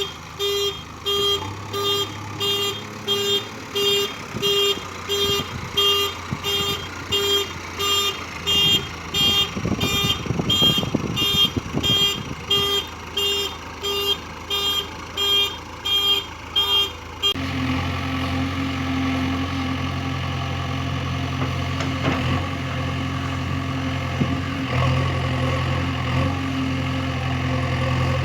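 A vehicle's reversing alarm beeping steadily, about three beeps every two seconds, over an engine. About two-thirds of the way through it stops abruptly, leaving a heavy diesel engine running steadily.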